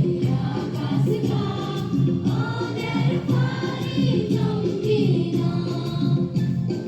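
A group of students singing the school song together in chorus, with steady musical backing under the voices.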